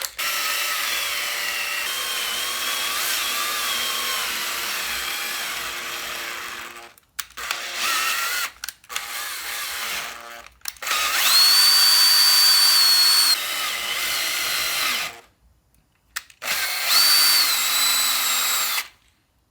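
Power drill running in five bursts with short stops, cutting threads with a tap in a stripped bolt hole of a Land Rover Series gearbox bell housing, ready for a thread insert. The whine steps in pitch during the later runs.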